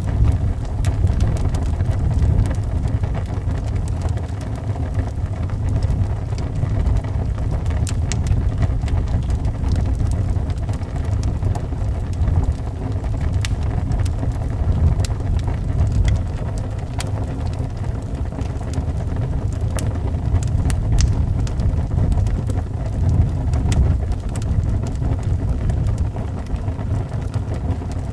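Wind rumbling steadily around a house, with a wood fire crackling in short, scattered pops over it.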